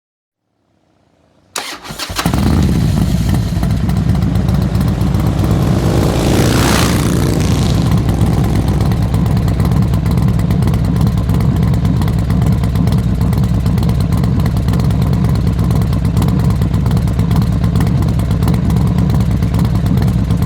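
Harley-Davidson Pan America 1250's liquid-cooled Revolution Max V-twin starting suddenly about a second and a half in, then running steadily and loudly. A brief whooshing sweep rises and falls around six to seven seconds in.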